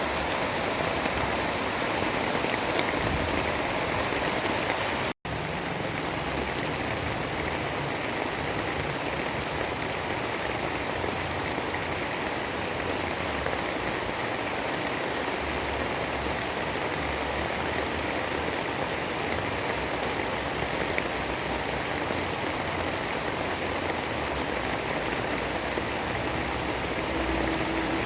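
Steady storm ambience of heavy rain, a dense even hiss of falling water, with a momentary dropout to silence about five seconds in.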